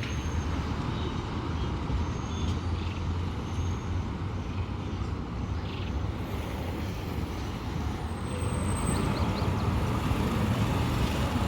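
Road traffic: a vehicle engine running with a steady low rumble, growing a little louder near the end.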